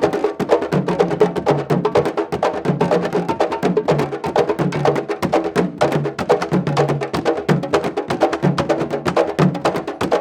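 Candombe drums playing a fast, dense rhythm of sharp strokes over a repeating low drum pattern.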